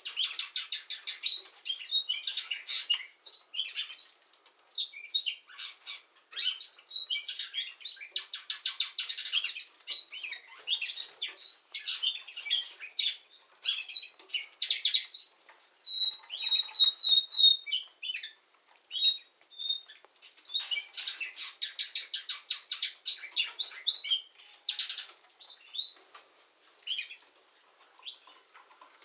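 Canary singing a long, nearly unbroken song of fast rattling trills and rolls, with a short run of clear repeated whistled notes about halfway through and sparser phrases near the end.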